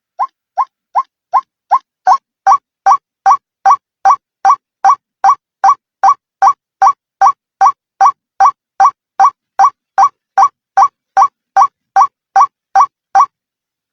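White-breasted waterhen (ruak-ruak) calling in a long monotonous series of identical short notes, about two and a half a second, played as a trapper's lure call. The notes start softer and grow to full strength over the first two seconds, then stop abruptly shortly before the end.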